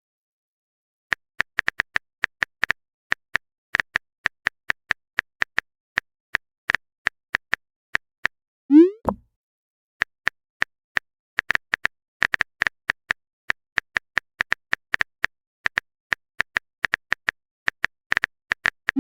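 Phone on-screen keyboard typing clicks, rapid and irregular like letters being typed, with one rising 'bloop' message-sent sound about nine seconds in.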